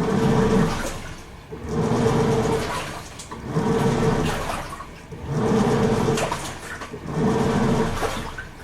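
Toshiba AW-42SEE4(S) top-loading fully automatic washing machine agitating a load. The pulsator motor drives in bursts about a second long, roughly every 1.7 seconds, and each burst has a motor hum and a swish of water sloshing in the tub.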